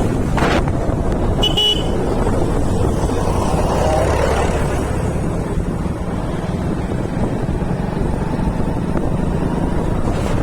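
Motorcycle riding along a road, with wind buffeting the microphone over the steady rumble of the engine, and a short horn toot about one and a half seconds in.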